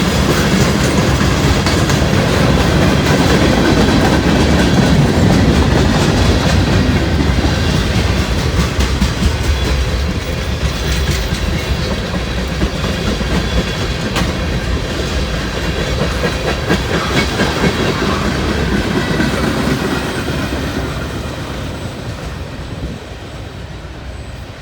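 Freight train cars rolling past on the track, wheels clicking over rail joints with a constant rumble. The sound fades over the last few seconds as the train moves away.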